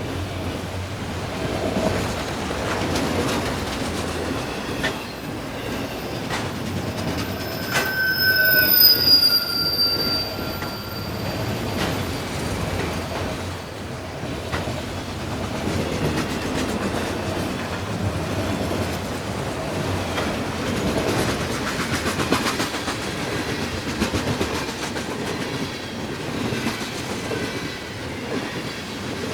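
CN freight train cars rolling past, a steady rumble of wheels on rail with clickety-clack over the joints. About eight seconds in, a sharp click is followed by a high wheel squeal that falls slightly in pitch and fades over about three seconds.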